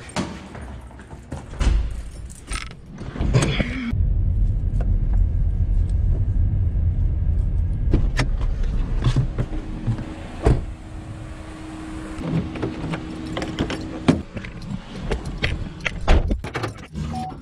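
A car's engine running, a low rumble that comes in suddenly about four seconds in and eases off after a few seconds, with scattered sharp clicks and knocks.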